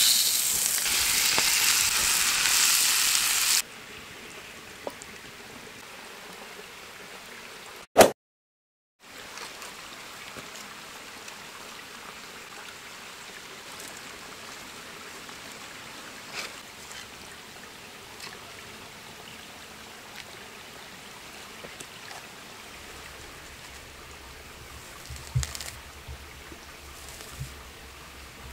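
Running water: a loud, even hiss for the first few seconds that drops suddenly to a much quieter steady wash with scattered small clicks. A single sharp click about eight seconds in is followed by a second of dead silence.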